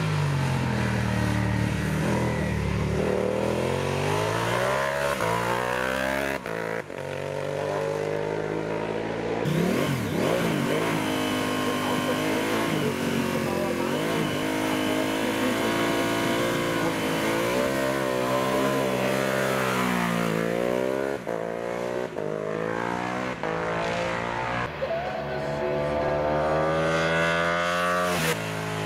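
Racing superbike's engine at full throttle on a hill-climb course, its pitch sweeping up through the revs and dropping back again and again with the gear changes and braking for the corners.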